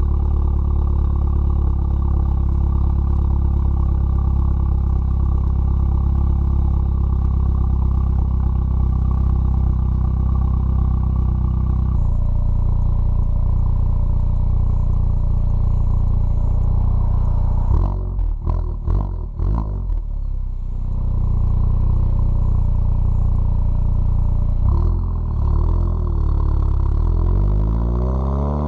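Volkswagen Mk7 GTI's turbocharged 2.0-litre four-cylinder running through a catless downpipe on a stage 2 crackle-and-pop tune. It holds a steady drone, then a quick string of sharp pops and cracks comes a little past halfway, and the revs climb near the end.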